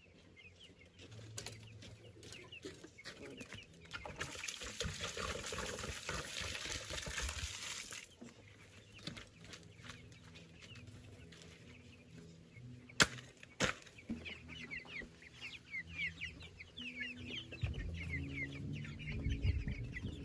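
Chickens clucking around the yard, with many short high cheeping calls in the second half. A few seconds of rustling noise come about four seconds in, and two sharp knocks a little past the middle.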